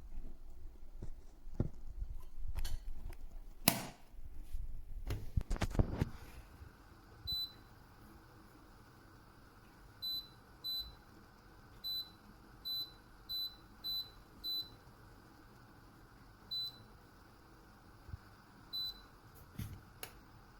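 Electric kettle being handled, with a few knocks and clatters, then its control panel giving about ten short, identical high beeps at uneven intervals as its buttons are pressed to set the temperature.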